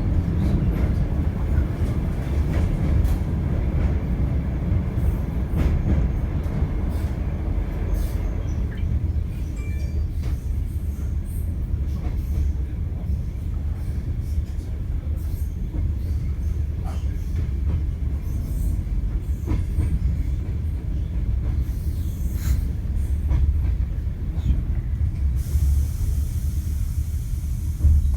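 Passenger train running on the rails with a steady low rumble and scattered clicks of the wheels over the track. A high hiss comes in near the end.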